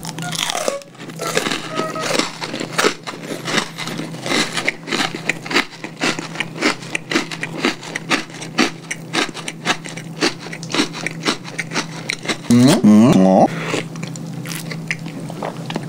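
Close-miked chewing of a crisp Oreo sandwich cookie: a quick, irregular run of crunches and mouth clicks. About thirteen seconds in there is a brief hummed vocal sound.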